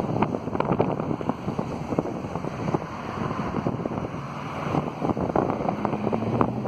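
A burning semi truck: a steady rushing noise of the fire with frequent irregular sharp crackles and pops, and wind buffeting the microphone.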